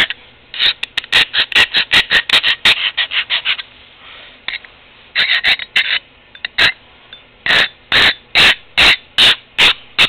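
A steel knife blade scraped against an abrasive in short strokes, filing down coarse spots on the edge. A quick run of scrapes at about four a second is followed by a pause near the middle, then slower strokes at about two a second.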